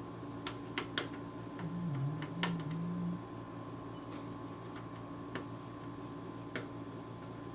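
Scattered small clicks and ticks, about a dozen spread irregularly, of a knife tip working at the screws inside an opened PlayStation 3. A short low hum comes in about two seconds in.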